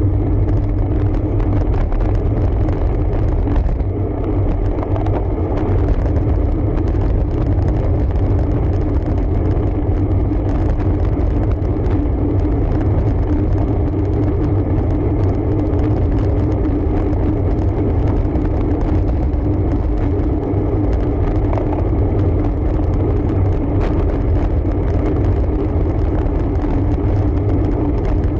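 Steady wind and road noise picked up by a camera riding along on a road bike, heaviest in the low end, with a faint steady hum and no break.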